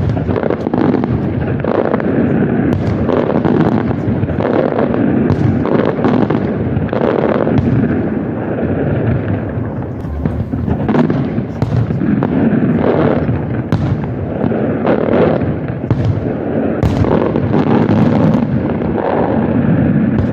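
Fireworks display: a continuous dense barrage of bangs and crackling, with sharper reports standing out every second or so.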